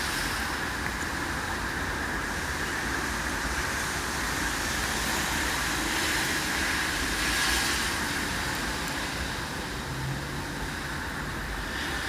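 Steady hiss and rumble of distant city traffic, swelling slightly about six to eight seconds in.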